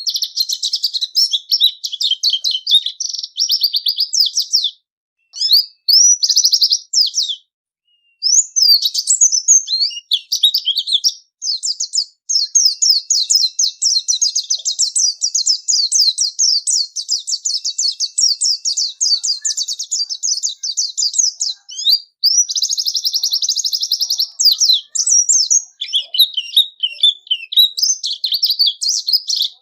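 White-eye (pleci) singing a long, fast, high-pitched twittering song of rapid trills and chirps, broken by short pauses about five, seven and eleven seconds in. It is a clear single-bird song of the kind used as a tutor recording for cage songbirds.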